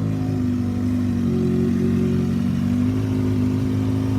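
Kawasaki ZX-6R inline-four engine idling after a cold start, pretty loud because it is running without its Two Brothers exhaust. The idle wavers slightly a second or so in, then settles.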